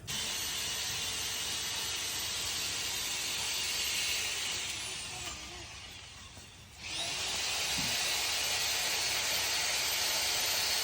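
Steady hiss of a crop sprayer spraying. It dies away about five seconds in and starts again sharply about a second later.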